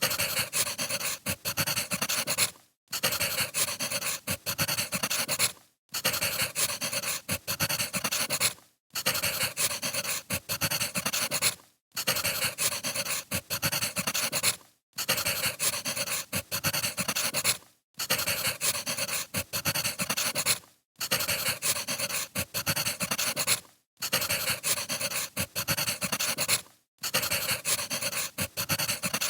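Crackling wood fire: dense popping and snapping of burning firewood, a short recording looped so that it drops out briefly about every three seconds.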